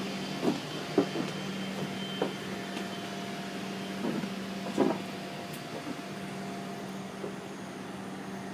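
Airliner cabin ambience: a steady hum of the cabin air system with a few light knocks and clicks, the clearest about a second in and near five seconds in.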